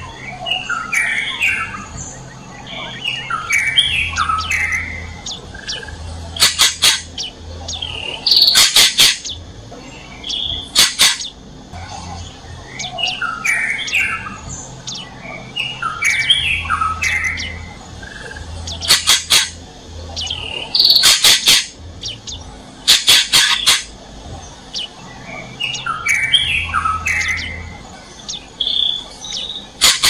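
Songbirds singing short warbled phrases every few seconds, broken by quick runs of sharp, loud clicks.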